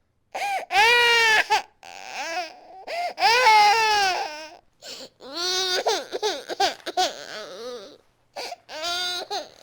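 Infant crying hard and screaming in long, loud wails, each lasting about a second, with brief catches for breath between them.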